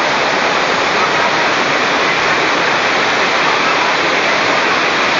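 Very heavy rain pouring down in a loud, steady hiss.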